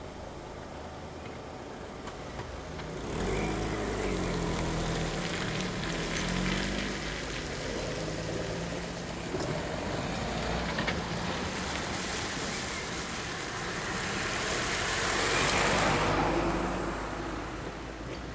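Road traffic passing over the level crossing: a car engine accelerating, with its pitch rising and falling, then a louder vehicle passing close and fading away near the end.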